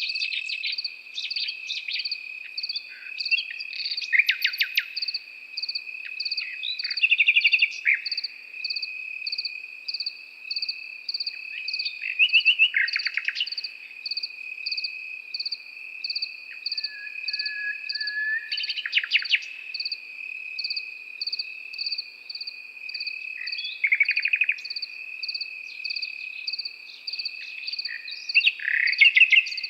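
Nightingale singing short separate phrases every few seconds, fast rattling trills and one long whistled note, over crickets chirping steadily in an even rhythm of about two chirps a second against a continuous high trill.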